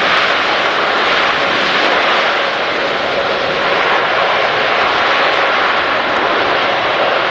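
Large jet airliner's engines giving a loud, steady roar.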